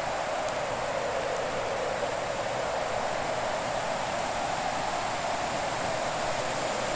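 Fire in an open hearth: a steady hissing rush with a few faint snaps about half a second to a second and a half in.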